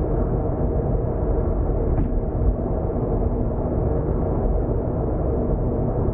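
Car driving at expressway speed: steady road and engine rumble, with one short click about two seconds in.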